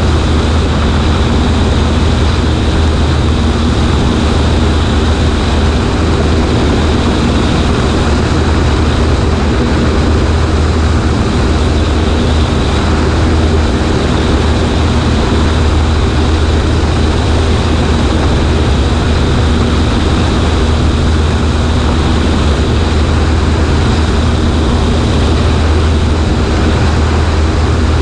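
Cessna 140A's engine and propeller running steadily at an unchanging power setting: a loud, even low drone under a steady rush of wind over a wing-mounted microphone.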